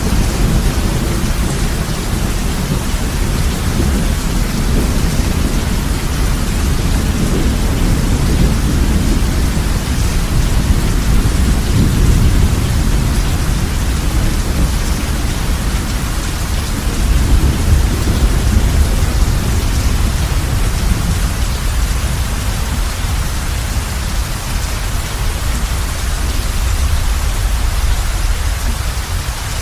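Heavy rain pouring steadily on a roof, with a low rolling rumble of thunder underneath that fades near the end.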